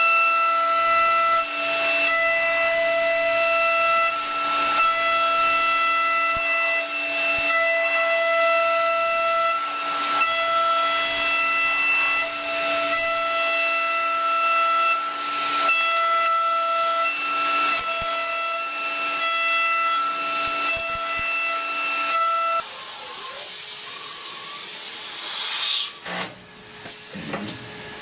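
CNC machine running with a steady high-pitched whine over a hiss, with faint knocks every two seconds or so. The whine cuts off suddenly about three quarters of the way through, leaving a louder hiss.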